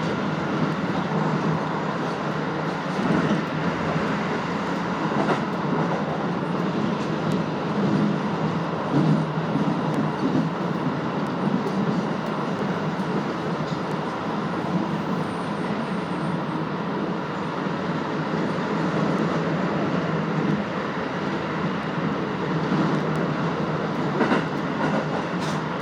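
Keisei electric commuter train running between stations, heard from inside the car: a steady rumble of wheels on rail with a few sharp clicks along the way.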